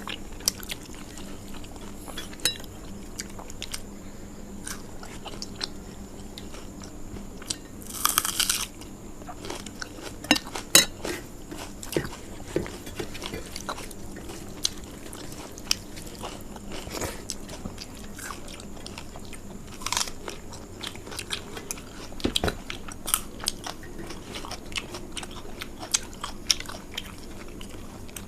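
Close-up crunching and chewing of fried food, with sharp crunches scattered irregularly and a longer burst of crunching about eight seconds in.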